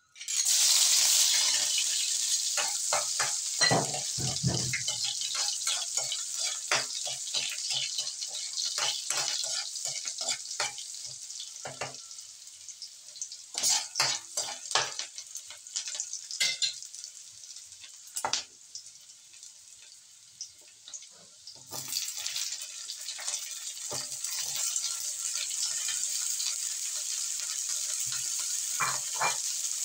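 Chopped onion and garlic hitting hot oil in a wok and sizzling, with a metal spatula scraping and clicking against the pan as they are stirred. The sizzle fades, then comes back strong and steady about two-thirds of the way through as raw chicken feet go into the wok.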